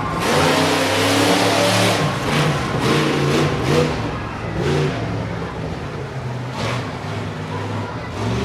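Monster truck engine revving hard, its pitch stepping up and down repeatedly, with a few short sharp cracks or bangs over the top.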